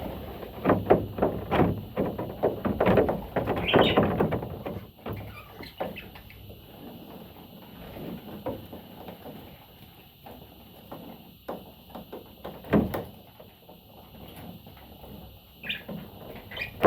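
A pet budgerigar's short chirps mixed with bursts of scratching and clicking, busiest in the first few seconds and again briefly near the end.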